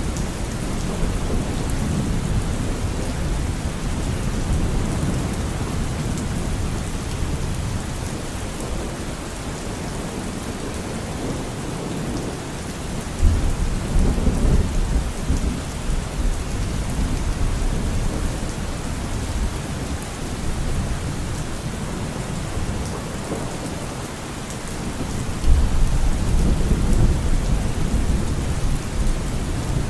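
Steady rain falling, with thunder: two low rumbles of thunder swell up suddenly, one about halfway through and one near the end, each rolling on for several seconds.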